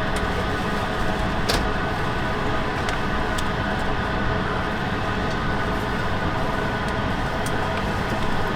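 Steady rush of an Airbus A220's cabin ventilation, with a few faint clicks.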